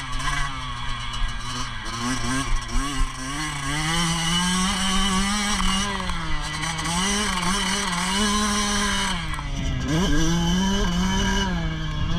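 Motocross dirt bike engine on track, its pitch rising and falling with the throttle. About ten seconds in it drops briefly and then climbs quickly as the rider opens the throttle again.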